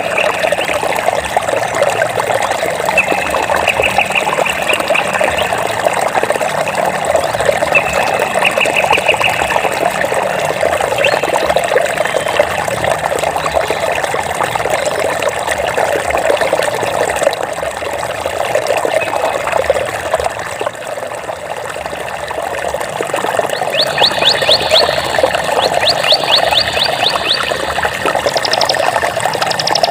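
Flowing water babbling and trickling steadily. Short rapid trills are heard over it several times, higher-pitched ones coming in over the last several seconds.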